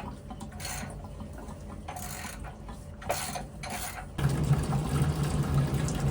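Water spurting in short hissing bursts, then running steadily and louder from about four seconds in.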